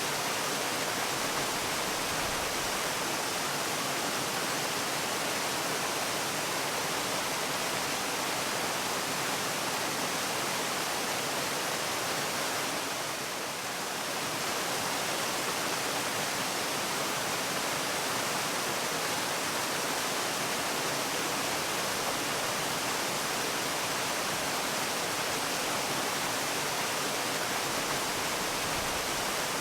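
Waterfall: a steady rush of falling water, even in level, with a brief slight dip about halfway through.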